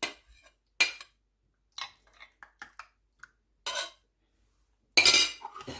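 Raw chicken pieces being put into a food chopper's bowl: scattered light clinks and knocks with silent gaps, then a louder burst of noise about half a second long near the end.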